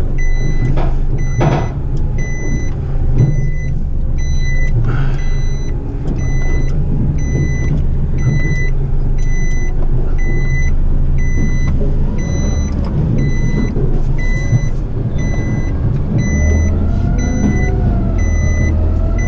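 Heavy rigid truck's diesel engine running, with a short electronic warning beep repeating about twice a second. A wavering tone rises and falls near the end.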